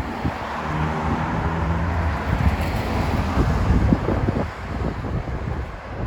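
A motor vehicle driving past, its engine hum rising and then fading in the first few seconds, with wind buffeting the microphone.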